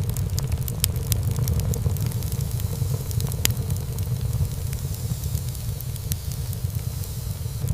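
Wood fire in a fireplace crackling, with many sharp irregular pops over a steady low rumble of the flames.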